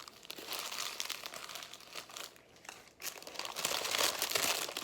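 Paper fast-food packaging crinkling as it is handled, in two stretches with a short lull between them, louder toward the end.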